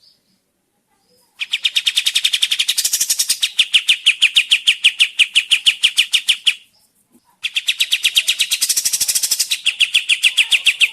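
Kapas tembak bird singing a fast, even trill of sharp repeated notes in two long runs, the first starting about a second and a half in and the second after a short break near the middle. This is lure song, played to get other birds of its kind to answer.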